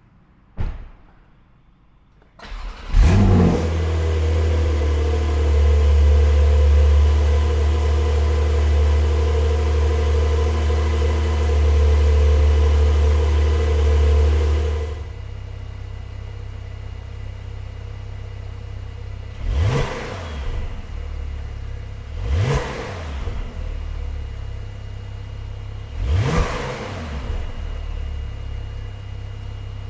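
2024 Porsche 911 Carrera 4S twin-turbo flat-six, fitted with Fabspeed headers and high-flow catalytic converters on the Porsche Sport Exhaust, starting up: a single click, then a short crank and flare, and a loud high cold-start idle that drops to a quieter idle about halfway through. Three quick throttle blips follow, each a rising and falling rev.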